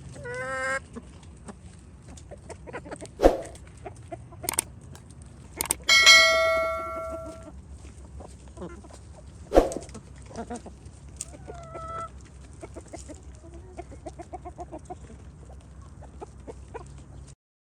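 Chickens clucking, with a rooster crowing once, a long held call about six seconds in, and a few sharp knocks in between.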